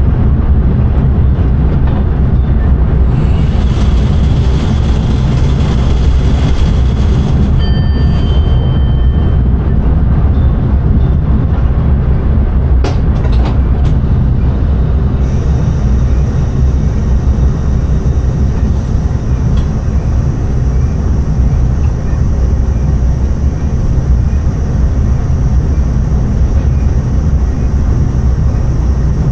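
Dutch intercity train running steadily on the line, a loud continuous low rumble of wheels and running gear heard from inside the driver's cab.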